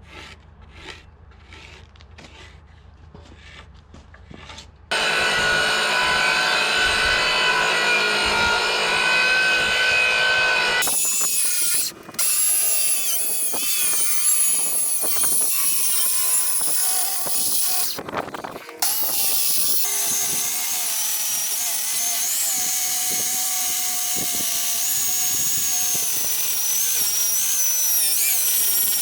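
Woodworking power tool running and working timber. After a few seconds of faint tapping it starts with a loud, steady whine, which cuts out briefly twice partway through.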